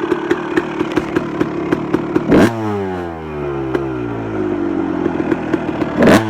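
2001 Honda CR250R two-stroke engine, breathing through a Pro Circuit Works pipe and R304 shorty silencer, idling with a regular popping about four times a second. The throttle is blipped twice, about two seconds in and again near the end, and the revs fall back to idle after each.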